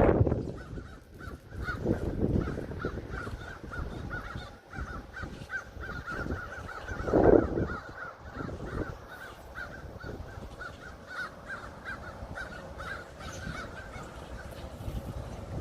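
Crows cawing in a long run of short, evenly repeated calls, with a louder harsh burst about seven seconds in.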